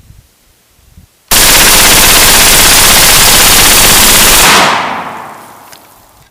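A sudden, extremely loud, distorted rapid-fire rattle that breaks in about a second in, holds at full strength for about three seconds, then fades away.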